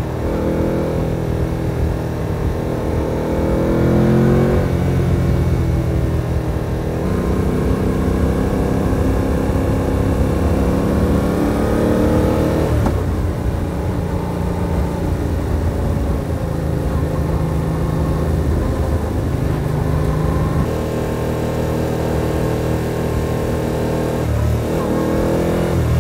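Motorcycle engine heard on board, pulling through the gears: its pitch rises under throttle and drops at each shift, several times over.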